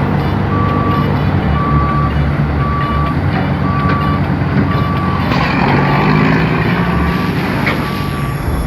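A vehicle's reversing alarm beeps about once a second, one steady high tone each time. A heavy engine runs underneath, and broader road noise swells a little after the middle.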